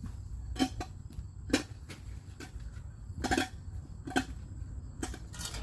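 Hand tools knocking and clinking against rotted wood as it is pried out: five or six sharp knocks, roughly a second apart, some with a short ring.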